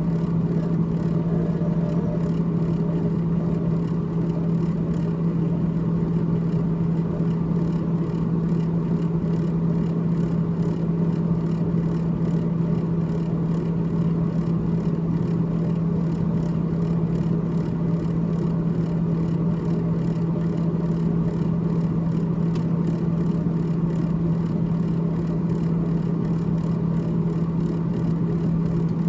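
Freezer fan of a GE GTH18XCTZRBB refrigerator running with a steady whirring hum and a strong, unchanging low tone.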